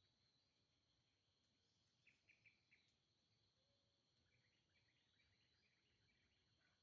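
Very faint forest ambience: a steady high insect drone, with four quick bird chirps about two seconds in and a patter of fainter chirps later.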